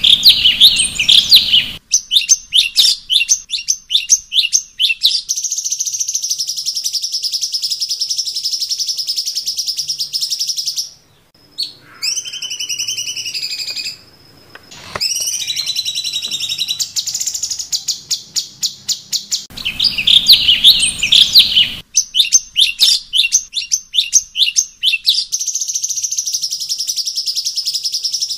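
Cucak cungkok songbird singing loudly. Runs of sharp, quick chirps alternate with a long, fast, high trill, and a few lower whistles slide up and down about halfway through. The same sequence comes round again about 20 seconds in, as a looped song-tutoring (masteran) track.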